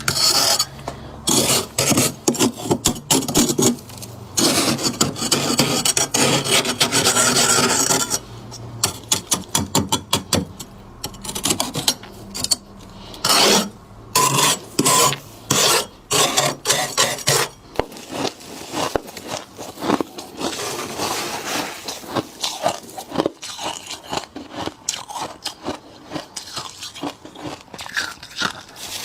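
Thick frost being scraped with a tool in repeated rasping strokes. The strokes run long and dense for about the first eight seconds, then turn shorter and more separate. After about 18 seconds they become quieter and more scattered.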